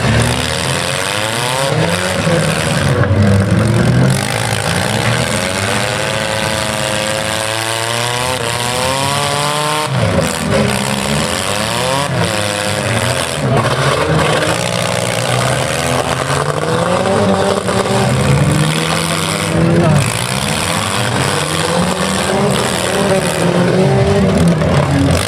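Several stock compact cars' engines revving hard, their pitch rising and falling as they drive and collide in a demolition derby. A few sharp knocks of car-on-car impacts about 3, 10 and 20 seconds in.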